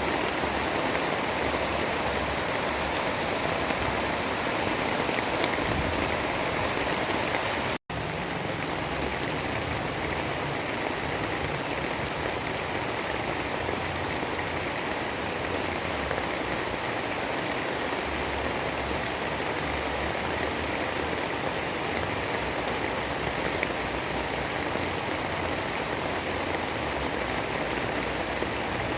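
Steady storm ambience: an even, dense rain-like rush with no distinct events. It cuts out for a split second about eight seconds in, then carries on.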